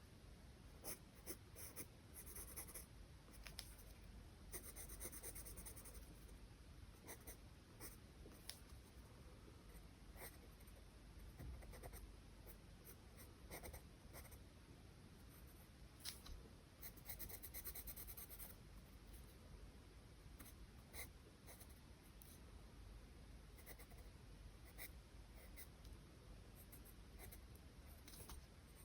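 Faint scratching of charcoal pencil strokes on paper, a run of short strokes and light taps, with a couple of longer hissing strokes.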